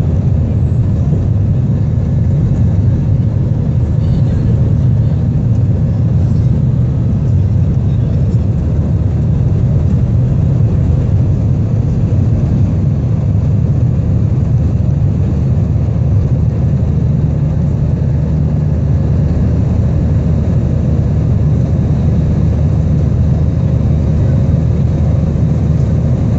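Jet airliner cabin noise during takeoff: a steady, loud low rumble of engines and rushing air.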